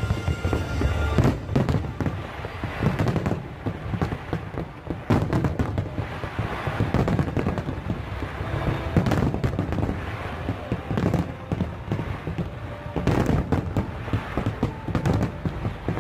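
Fireworks display: a rapid, irregular series of bangs and crackling bursts over a continuous low rumble, with music playing underneath.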